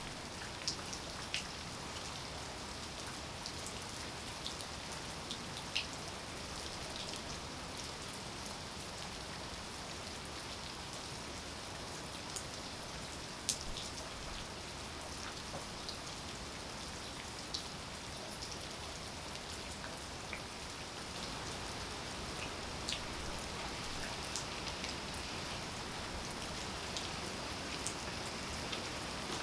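Steady rainfall, an even hiss with many scattered sharp drops ticking close by.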